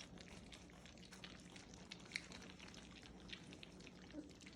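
Faint, irregular wet clicks and smacks of four-week-old puppies lapping and chewing freshly mixed puppy food from trays.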